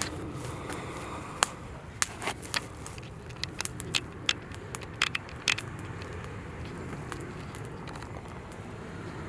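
Firewood fire crackling, with about ten sharp pops in the first five and a half seconds and fewer afterwards.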